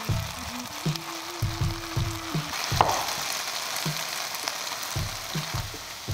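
Beef stir-fry sizzling in a hot wok as it is stirred and scooped out with a wooden spatula, with a single sharp knock about three seconds in.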